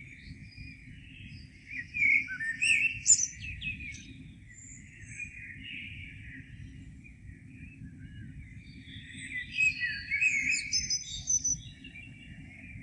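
Songbirds singing and chirping in the morning, with a louder, busier burst of song about two seconds in and again near ten seconds, over a low steady rumble.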